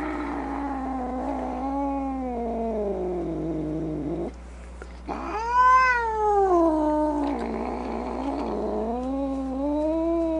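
Cat yowling in long, drawn-out wavering calls. The first slides down in pitch and stops about four seconds in. After a short gap a louder call rises and falls, then runs straight into a third long, wavering yowl that ends near the close. A steady low hum sits underneath.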